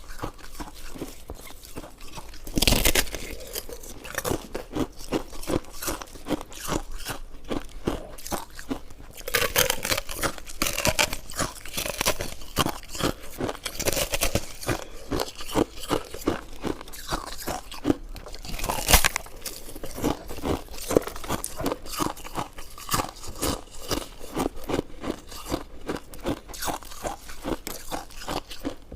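Close-miked chewing and biting of food: a dense run of small crunchy, clicky mouth sounds, with louder bites about three, ten and nineteen seconds in.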